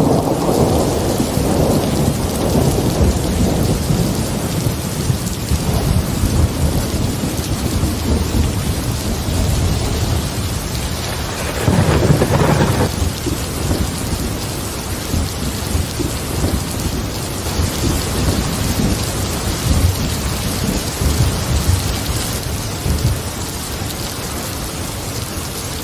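Heavy rain pouring steadily with rolling thunder; the rumble is heaviest at the start and swells again into a louder roll about twelve seconds in.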